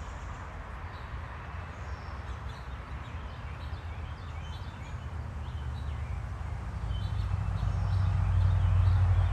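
Small backyard birds chirping faintly in short, scattered calls, over a low rumble that grows louder in the last few seconds.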